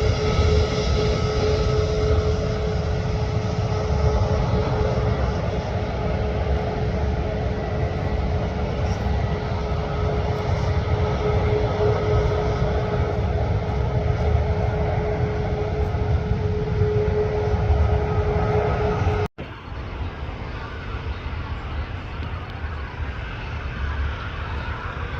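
Jet airliner engines running loud and steady, with one steady whine under a deep rumble. About nineteen seconds in the sound cuts off abruptly, then quieter engine noise continues without the whine.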